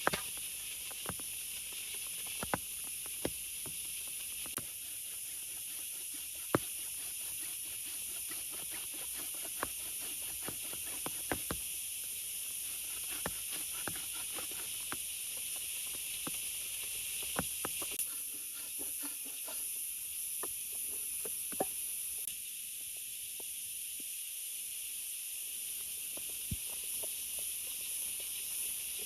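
Steady hiss of heavy rain, with scattered sharp taps and knocks at irregular intervals.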